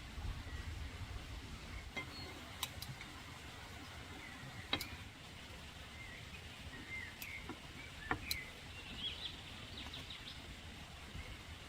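Outdoor rural ambience with small birds chirping intermittently, a few chirps close together near the end. A handful of sharp clicks or knocks are scattered through it, over a low wind-like rumble.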